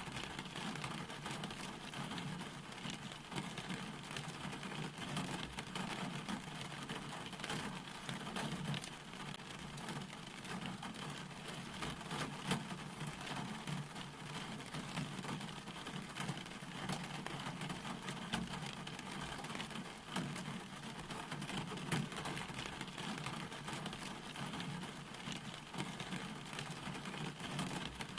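Steady rain falling, with a dense patter of individual drops over an even hiss.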